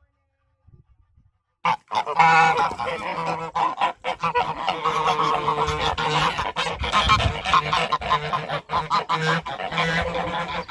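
Geese honking, several calls overlapping in a loud, continuous din that starts suddenly about two seconds in.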